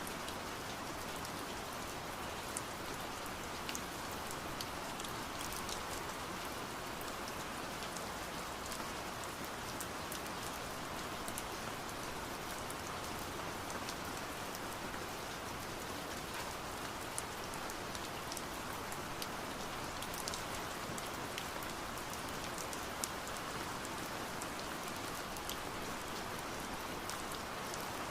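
Steady rain, an even hiss, with scattered sharp ticks of drops tapping on window glass.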